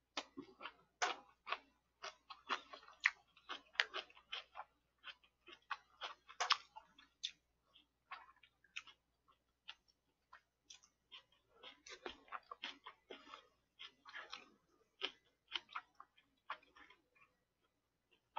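A person chewing food close to the microphone: an irregular run of short wet mouth clicks and smacks, several a second, pausing now and then.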